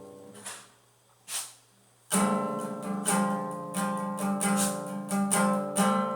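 Acoustic guitar: a chord rings and dies away, then after a short pause steady rhythmic strumming starts about two seconds in, playing the song's intro.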